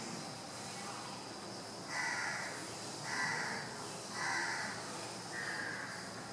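A bird calling four times, about once a second, each call short and harsh, over a steady high-pitched buzz.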